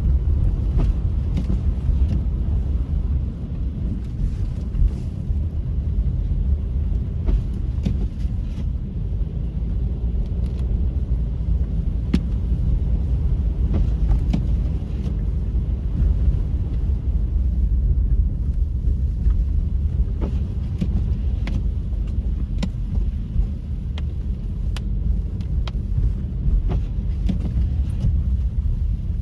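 Car driving: a steady low rumble of engine and road noise, with scattered faint ticks.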